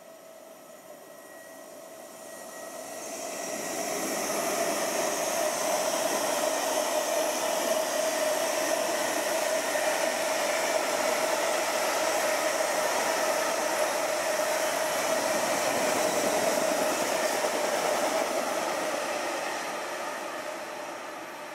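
A long freight train of open wagons rolling past on the track: steady wheel-on-rail rumble and hiss with a ringing tone in it. It builds over the first few seconds, holds, and fades near the end.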